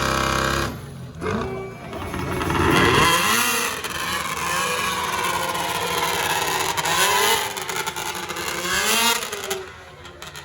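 Pulling truck's engine revving hard at a truck pull, its pitch swooping up and down several times as the throttle is worked, then dropping away near the end.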